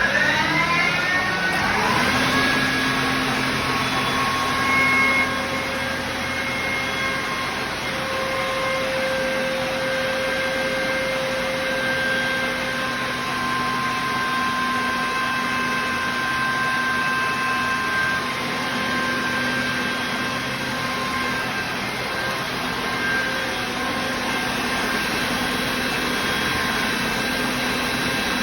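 ZIF-55 air compressor driven by an electric motor, spinning up with a rising whine over the first couple of seconds, then running steadily.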